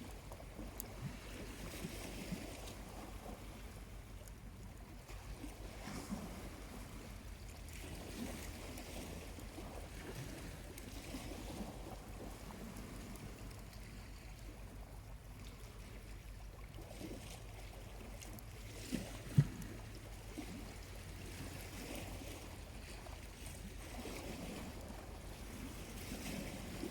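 Small waves washing softly onto the shore in slow swells, with a single sharp pop from a charcoal fire a little past two-thirds of the way through.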